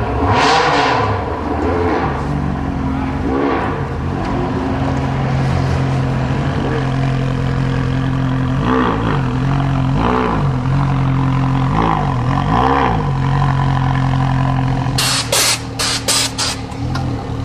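Car engine idling steadily, its throttle blipped several times so the pitch rises and falls briefly, mostly in the middle. Near the end comes a quick run of short, sharp bursts.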